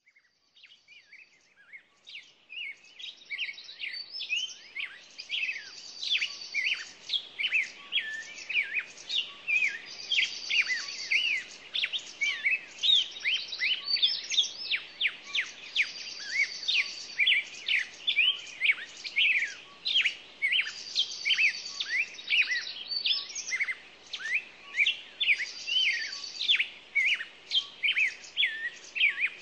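Many small birds chirping and calling at once in a dense, overlapping chorus of quick, high chirps, fading in over the first few seconds.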